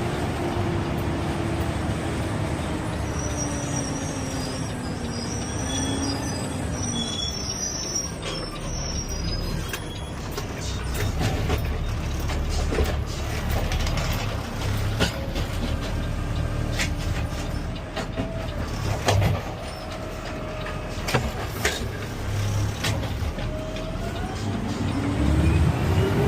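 Peterbilt 520 CNG garbage truck driving, heard from the cab: the engine note falls as it slows and climbs again near the end as it pulls away. Knocks and rattles sound throughout, with a few short high squeals a few seconds in.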